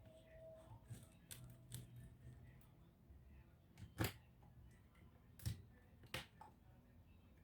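Scattered sharp clicks and taps in near silence, the loudest about four seconds in: small tools and plastic or metal laptop parts being handled and set down during disassembly.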